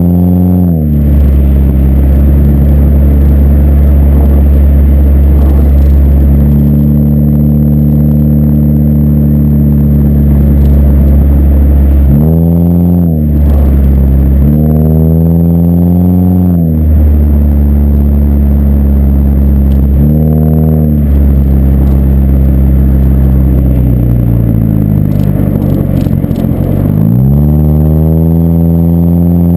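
Exhaust note of a 2007 Ford Focus four-cylinder through an aftermarket BWR exhaust, heard while driving. It holds a steady cruising drone, and several times the revs climb and then drop back as the automatic gearbox shifts up, with a longer climb near the end.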